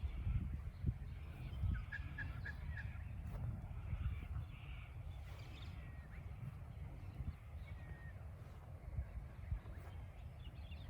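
Cockatoos and other birds calling faintly over a steady low rumble, with a quick run of four short chirps about two seconds in.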